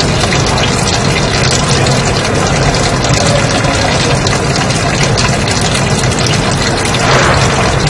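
Continuous white noise: a steady, even hiss with a low rumble underneath, and a slight swell about seven seconds in.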